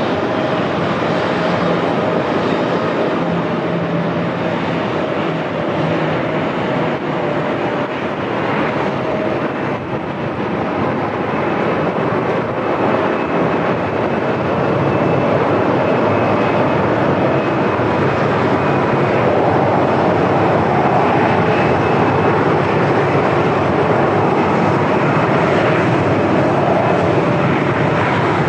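Twin turboprop engines and propellers of an ATR 42-600 airliner running as it comes in to land, a steady loud drone with a few faint held tones, growing a little louder about halfway through.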